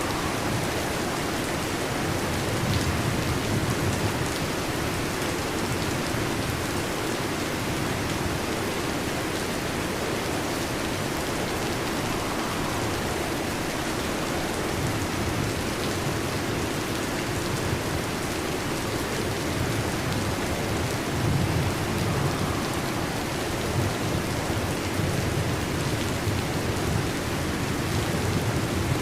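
Steady heavy rain falling, with low rumbles of distant thunder swelling a few seconds in and again past the middle.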